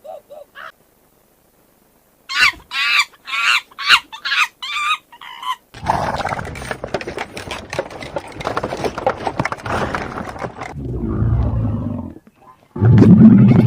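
A sequence of animal sound clips: a chicken clucking in about seven short calls, then a big cat growling roughly, and a loud low roar starting near the end.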